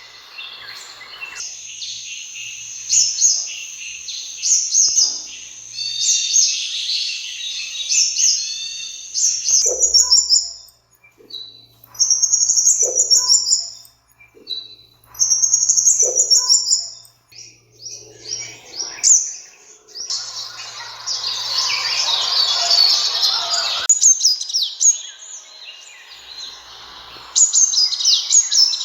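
Sunbird calling: rapid runs of high, thin chirps and trills in bursts separated by short gaps, with a few short lower notes around the middle.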